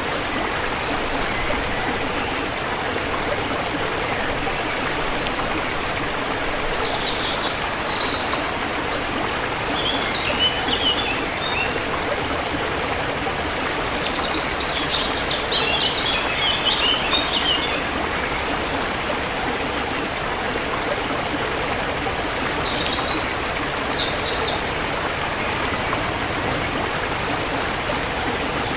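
Steady rush of a forest river flowing, with songbirds chirping in short high bursts over it, about four times.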